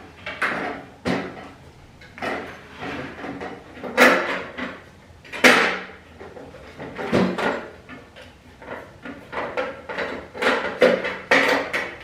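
Irregular knocks, clicks and rattles of the Primeweld MIG 160 welder's wire-spool compartment door being handled and pried at as someone tries to open it, until it comes off.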